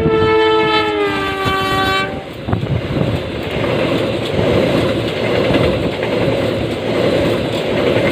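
A passenger train passes close by. Its horn sounds for about two seconds, dropping in pitch as it goes by, then the coaches run past with a steady rumble and clatter of wheels on the rails.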